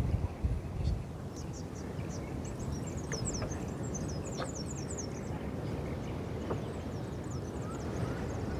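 Small birds twittering in quick runs of high, falling chirps, over a steady wind rumble on the microphone that is heavier in the first second.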